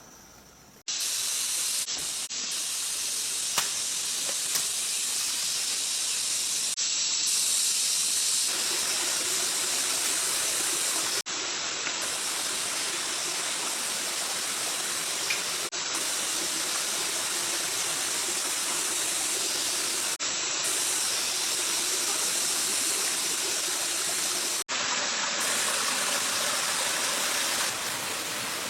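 Rushing water of a jungle stream or waterfall, a steady hiss broken off and resumed abruptly several times.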